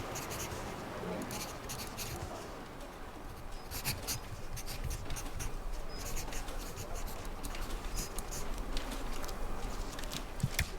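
Office room tone with a low steady hum, under scattered light clicks and taps at a desk that come in short irregular clusters.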